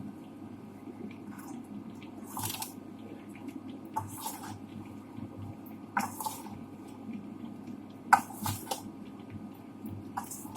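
Boiled raw-banana pieces coated in rice flour and spices being shaken and tossed to coat them. A soft swish and clatter comes every second or two, with one sharper knock about eight seconds in, over a steady low hum.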